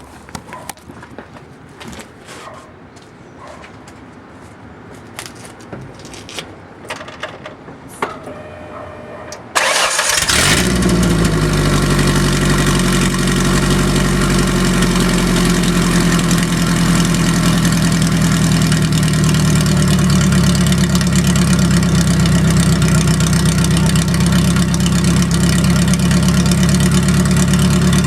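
Scattered faint clicks, then about nine and a half seconds in a Ford Ranger's 2.3-litre four-cylinder engine starts and settles into a loud, steady idle. It runs through a straight pipe with no muffler, no catalytic converter and no tailpipe.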